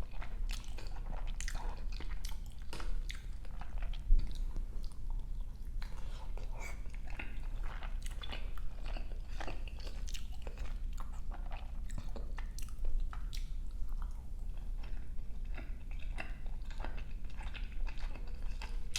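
Close-miked chewing of soupy pork dumplings: a steady run of small mouth clicks and smacks, with one louder bite about four seconds in.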